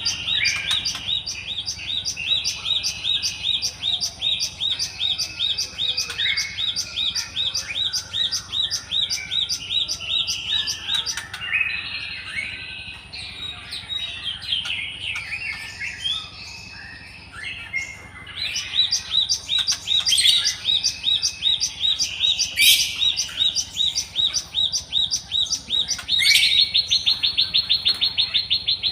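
A gelatik songbird singing: long runs of high, sharp chirps repeated about three times a second, broken by a quieter, more varied warbling stretch midway. Near the end it speeds into a fast trill.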